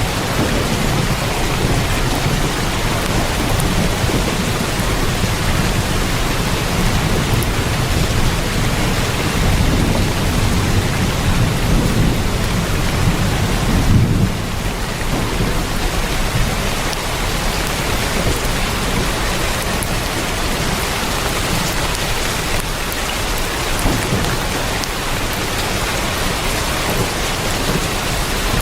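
Heavy rain pelting a tin roof in a dense, steady hiss, with a low rumble of thunder rolling under it through the first half and easing off after a brief peak about halfway through.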